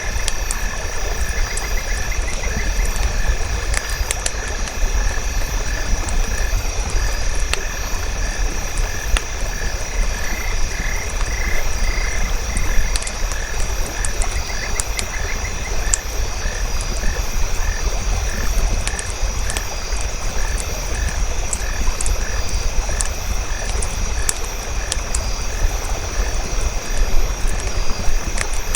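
Frogs calling in trains of quick repeated pulses over a steady high insect drone. Sharp crackling clicks of a campfire are scattered through, over a low rumble.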